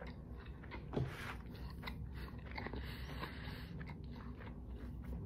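A person chewing a mouthful of food close to the microphone: soft, irregular mouth clicks, with a slightly louder click about a second in.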